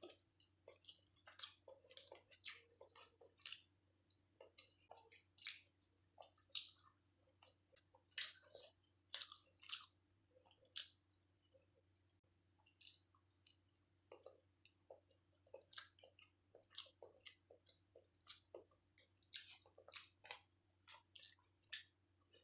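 A person chewing chicken biryani close to the microphone, with irregular wet mouth clicks and lip smacks about once a second.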